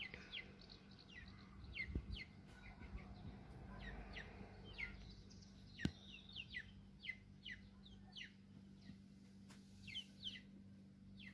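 Faint bird chirps: many short, quick chirps, each sliding downward, repeated irregularly over a low steady hum, with a single sharp click about six seconds in.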